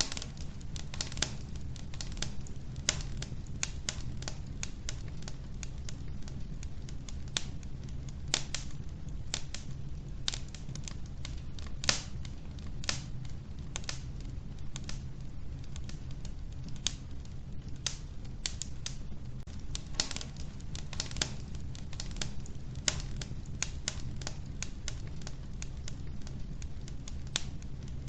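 Wood fire crackling in a wood-burning stove: irregular sharp pops and snaps, several a second, over a steady low rumble of the burning.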